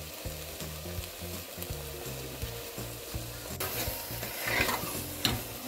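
Grated bottle gourd sizzling as it fries in an aluminium pressure cooker, stirred with a steel spoon that scrapes the pot. The sizzle and scraping grow louder about three and a half seconds in as the stirring quickens. Soft background music runs underneath.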